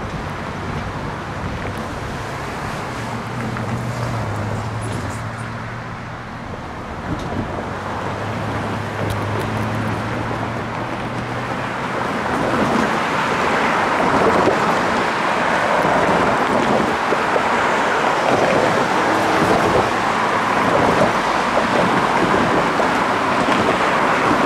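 Freight train passing a road crossing: a steady rumble with a low engine drone in the first half, giving way about halfway through to louder, rougher noise.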